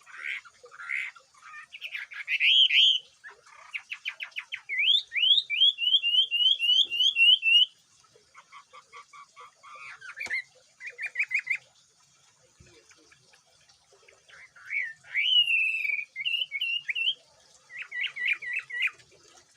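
A wambi (Chinese hwamei) singing a loud, varied song: bursts of quick repeated notes, a run of rising slurred whistles and short trills, broken by brief pauses. Some phrases are its mimicry of the tieumi bird.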